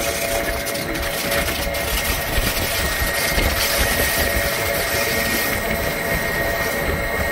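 Electric Rhaetian Railway train running along the Bernina line, heard from an open carriage window: a steady rush of running noise and wind over a rough low rumble, with a faint steady whine on top.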